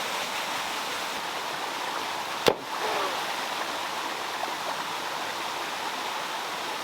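Steady rush of running water from a stream or small waterfall, broken once about midway by a single sharp click.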